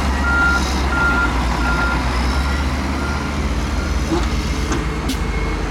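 Heavy earthmoving machine's diesel engine running with its reversing alarm beeping at one steady pitch, about one and a half beeps a second; the beeps fade and stop about three seconds in, and the engine drops in level soon after.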